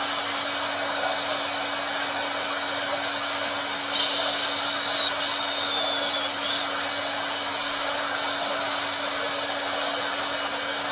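Electric hair dryer running steadily: rushing air over a constant motor hum. A brighter hiss swells in for a couple of seconds near the middle.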